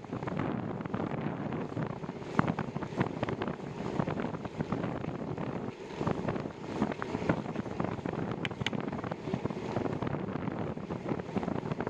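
Gusty wind buffeting the microphone during a bicycle ride, a continuous rumbling rush. Scattered short clicks and knocks run through it.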